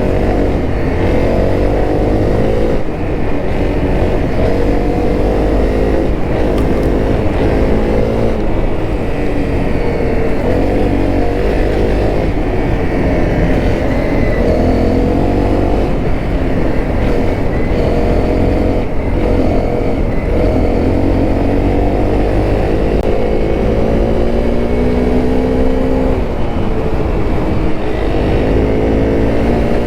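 Honda CRF250L's single-cylinder four-stroke engine under way: revving up through the gears. The pitch climbs for a few seconds, drops back at each shift and climbs again, several times over, above a steady low rumble.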